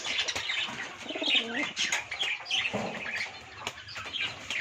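Domestic pigeons cooing, one wavering low coo about a second in, with wings flapping and busy high chirping of other birds throughout.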